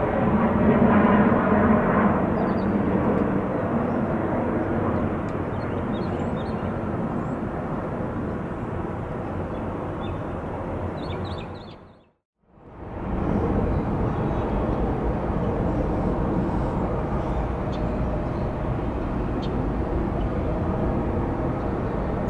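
Jet airliner engine noise, a steady broad rumble that slowly eases and fades to silence about halfway through, then fades back up and stays steady.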